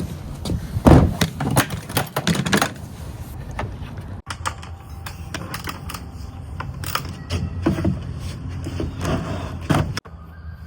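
Irregular clicks, taps and knocks of hands handling the dirt bike's plastic parts.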